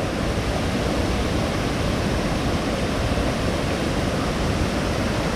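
A waterfall rushing steadily, a dense, even roar of falling water.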